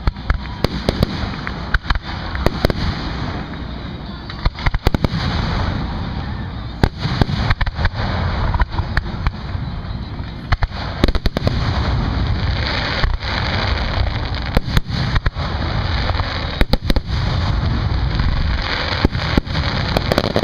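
Fireworks display: many sharp bangs of bursting shells at irregular intervals, some coming in quick clusters, over a continuous noisy background.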